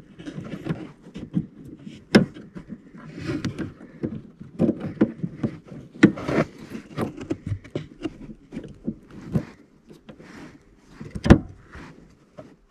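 Plastic clicking, rattling and rustling as a car's rear light assembly and its bulb holders are handled, with a few sharper knocks about 2, 6 and 11 seconds in.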